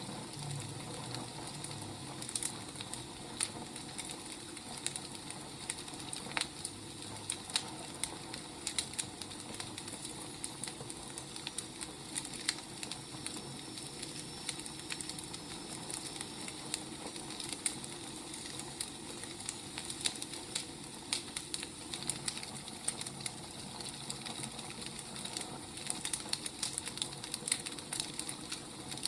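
Firewood burning, crackling with irregular sharp pops over a steady hiss.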